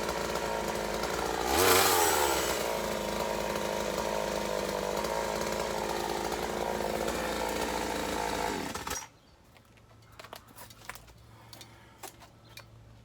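Chainsaw running steadily. It revs up louder for about a second near the start, then stops abruptly about nine seconds in. Faint light clicks and rustling follow.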